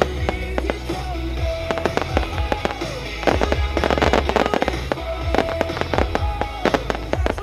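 Fireworks going off in repeated bangs and crackles, densest about halfway through, with music playing alongside.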